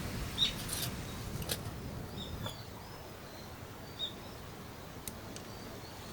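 Birds chirping a few times with short, high calls over a low outdoor background, with a few sharp clicks in between.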